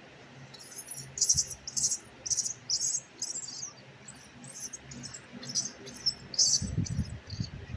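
A baby monkey's short high-pitched squeaks, repeated about twice a second in two runs, with a few low thuds near the end.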